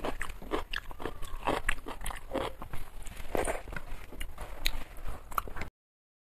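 A person chewing and biting crunchy food close to the microphone: rapid, irregular crunches, cutting off suddenly near the end.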